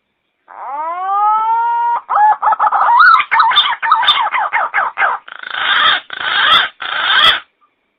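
Pink-necked green pigeon (punai gading) calling, as used for a lure call. It opens with a rising whistle, breaks into a fast stuttering run of gurgling notes, and ends with three harsh, rasping notes.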